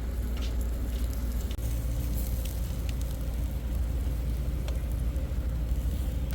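Cooking over an open fire: scattered sharp crackles and pops above a steady, deep rumble.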